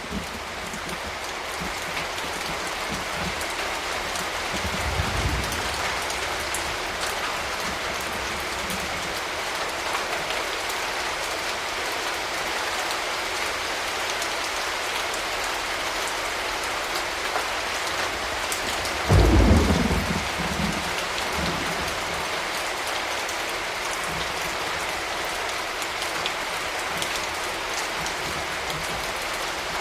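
Steady rain falling, with a soft low rumble of thunder about five seconds in and a louder, short clap of thunder a little past the middle.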